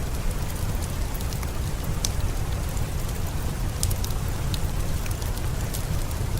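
Steady rain falling over a low rumble, mixed with scattered sharp crackles and pops from a wood fire.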